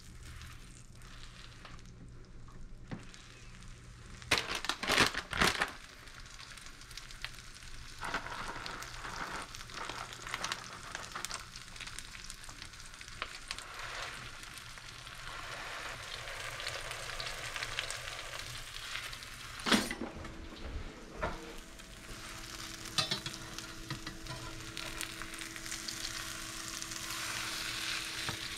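Grilled cheese sandwich sizzling in butter in a frying pan, the sizzle growing louder as the pan heats. A cluster of sharp knocks and clatters comes about four seconds in, and another single knock about twenty seconds in.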